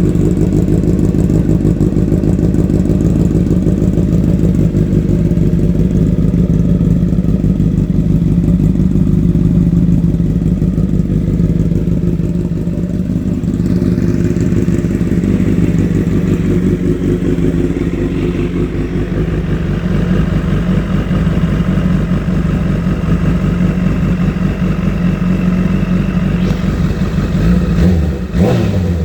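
Honda CBR1000RR SC59 inline-four engine running through a Dominator aftermarket exhaust, a steady loud exhaust note that brightens slightly about halfway through and changes briefly near the end.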